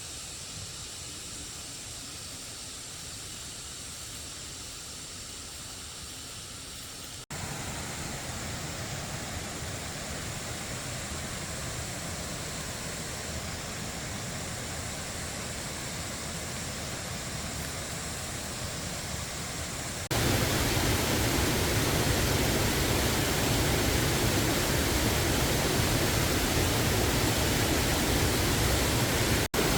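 Steady rush of water from a waterfall. It jumps louder in two abrupt steps, about seven and about twenty seconds in.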